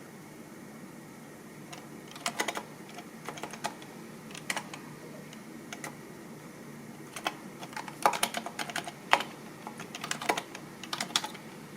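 Typing on a computer keyboard: irregular bursts of keystroke clicks with short pauses between them. The first two seconds are quieter, and the densest run of keystrokes comes around eight to nine seconds in.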